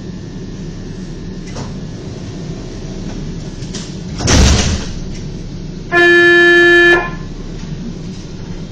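Tram running with a steady rumble. About halfway in there is a short loud rush of noise, then near the end a loud, steady, single-pitched warning signal sounds for one second.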